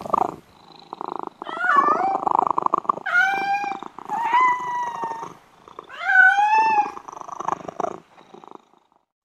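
Domestic tabby cat purring steadily, with four short rising-and-falling mews over the purr. The purring fades out near the end.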